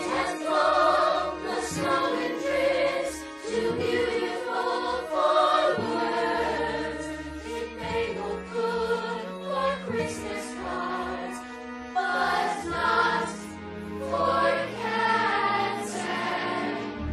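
Music with a choir singing held notes that change about every second.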